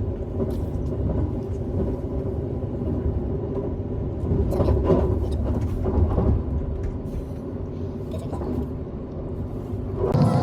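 Steady low rumble of a moving train, heard from inside the carriage, with a few faint ticks about halfway through.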